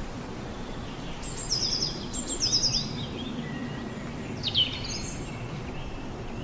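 Birds chirping over steady outdoor background noise: two quick runs of high, falling chirps between about one and three seconds in, and another short call near four and a half seconds.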